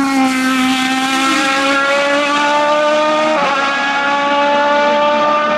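Hill-climb race car engine running hard, its note falling in the first second, then holding fairly steady, with an abrupt break about three and a half seconds in, like a gear change.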